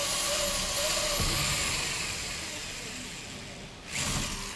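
Power drill boring a hole through a wooden plank, running steadily, with a brief louder burst about four seconds in.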